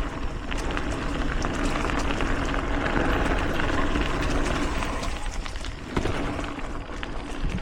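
A mountain bike rolling along dirt singletrack: steady tyre and trail noise with many small rattles and clicks, and a sharper knock about six seconds in.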